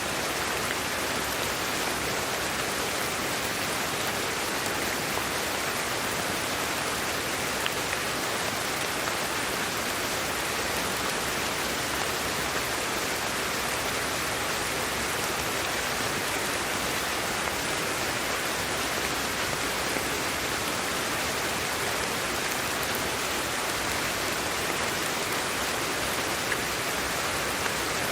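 Steady, unchanging white-noise hiss, strongest in the upper-middle range, with an occasional faint tick.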